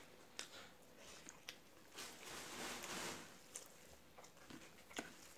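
Faint close-miked eating sounds of rice eaten by hand: scattered soft mouth clicks of chewing, with a longer rustling stretch between about two and three seconds in.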